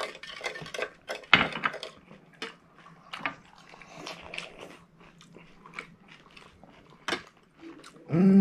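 Crisp semolina pani puri shells being bitten and chewed, with scattered sharp crunches throughout, the loudest about a second and a half in. A short vocal sound right at the end.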